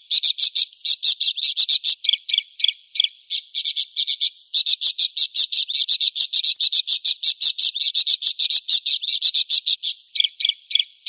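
A recorded animal call: a rapid, high-pitched trill of short, dry notes, about seven a second, running on with a brief break near the middle and a few stuttering notes near the end.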